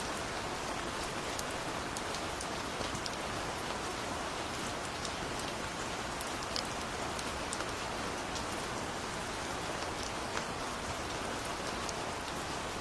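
Steady gentle rain falling on a surface, with a dense hiss and scattered individual drops ticking through it.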